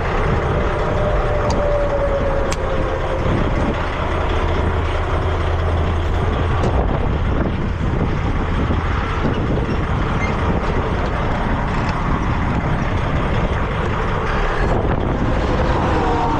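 Heavy truck's diesel engine running steadily, with a faint whine that drops a little in pitch at the start and climbs again near the end.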